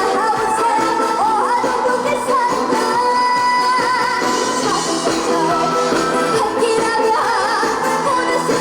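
Girl singer singing a trot song live with vibrato over a loud band backing track through stage speakers.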